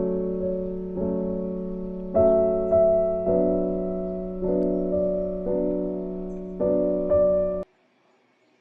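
Piano music of slow, sustained chords that cuts off abruptly near the end, leaving near silence.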